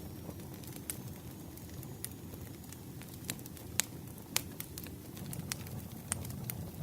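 Campfire crackling: a steady low rush of burning wood with scattered sharp pops, the loudest two in the middle.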